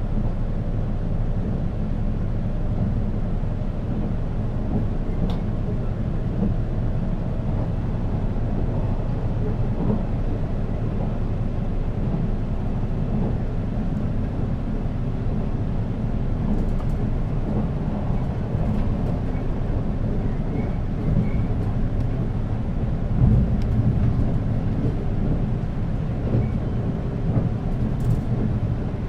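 Running noise inside a JR East 485-series electric train's motor car: a steady low rumble of wheels on rail and traction motors, with a brief louder low bump about twenty-three seconds in.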